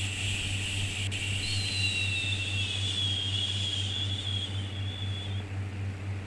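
A long, drawn-out 'shhh' shushing sound for soothing a baby, over a steady hiss and low hum. It stops about five and a half seconds in.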